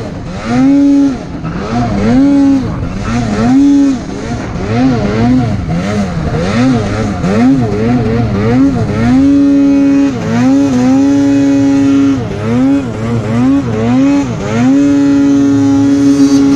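Arctic Cat snowmobile engine revving up and down over and over, with quick throttle blips and a few held high-rev stretches of a second or two.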